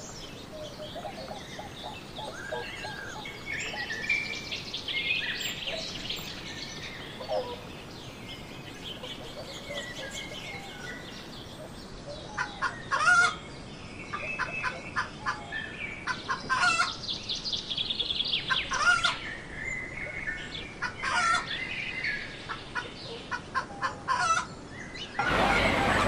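Domestic hen clucking over and over in short sharp calls, after a stretch of high small-bird chirps. A loud steady rush of noise sets in suddenly near the end.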